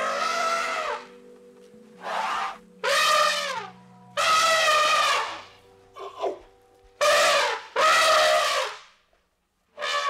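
An animal giving a run of loud, pitched calls, about seven in all, each up to a second long and dropping in pitch at its end, over soft background music.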